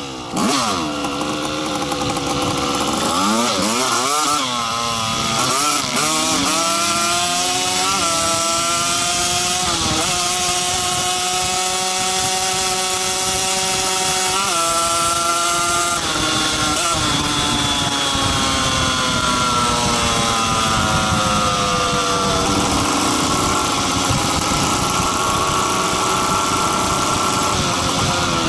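Small motorcycle engine revving: its pitch swoops up and down for the first few seconds, then climbs through the gears with a sudden drop at each shift, and then eases off in a long, slow fall to a steady cruise.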